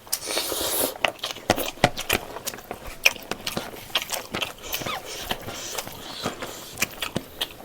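Close-miked eating: a person chewing a mouthful of rice with pork-leg gravy, with many irregular wet mouth clicks and lip smacks and a brief hiss near the start.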